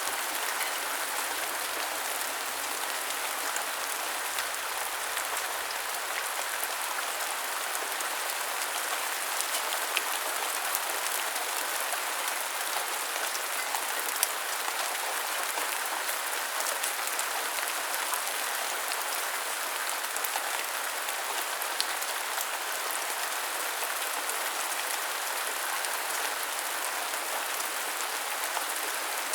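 Steady rainfall: an even hiss with scattered sharp ticks of individual drops.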